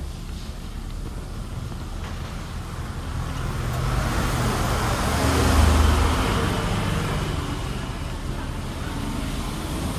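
Motor vehicle engine and road noise, growing louder to a peak about six seconds in and then fading, as a vehicle passes close.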